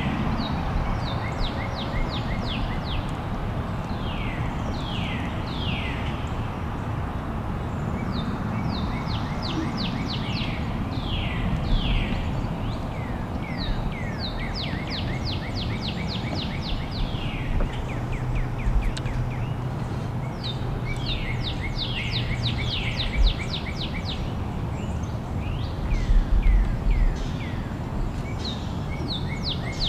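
Several birds chirping, with runs of quick downward-sweeping notes and short repeated chirps, over a steady low outdoor rumble. A few brief low bumps stand out near the end.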